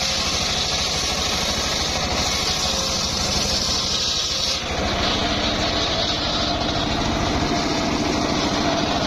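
Engine of a homemade circular-saw sawmill running steadily with an even, rapid low throb, dipping briefly about four and a half seconds in.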